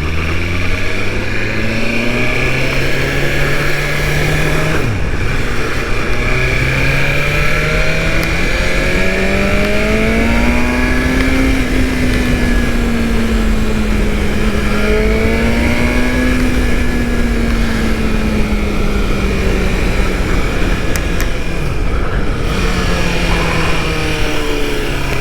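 BMW S1000RR's inline-four engine pulling away and climbing in pitch, with a brief drop about five seconds in as it shifts up. It rises again, wavers, and eases off near the end. Heavy wind noise from the helmet-mounted microphone, which has no windsock, runs under it.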